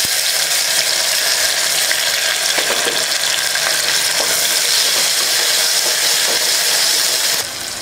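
Tomato pieces, shallots, garlic and green chilli sizzling in hot oil in an aluminium pressure cooker, stirred with a wooden spatula. The sizzle is steady and drops sharply near the end.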